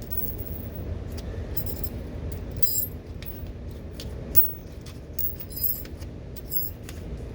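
Small metal mounting hardware (bolts, nuts, washers and brackets) clinking and jingling in many short, irregular clicks as the pieces are handled and set out, over a steady low rumble.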